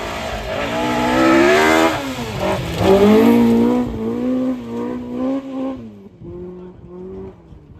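Rally car passing close by at full throttle. The engine climbs to its loudest about a second and a half in, lifts off briefly near two and a half seconds, pulls hard again, then fades away after about six seconds.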